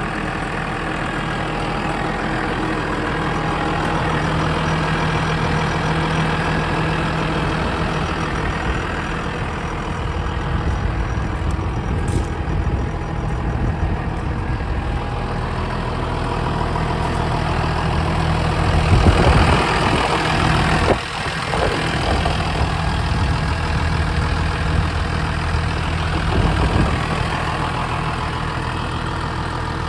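Massey Ferguson 7485's six-cylinder turbo-intercooled Sisu diesel engine running steadily at idle. It gets louder and rougher for a moment about nineteen seconds in, then drops back suddenly.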